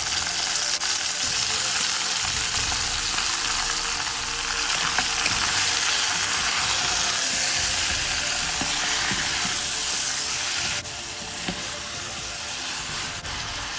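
Chopped chicken pieces frying in hot oil, a steady sizzle that eases somewhat about eleven seconds in.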